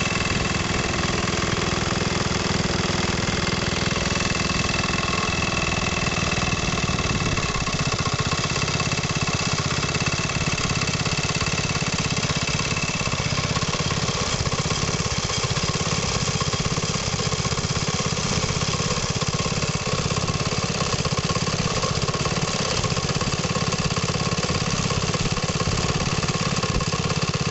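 Vintage Briggs & Stratton small engines running steadily at idle, with a fast even firing beat.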